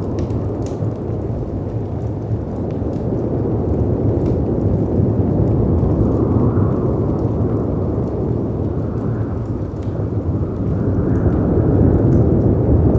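Stormy ambience of deep rushing wind and sea surf that swells and eases, with a few faint crackles from a wood fire on top.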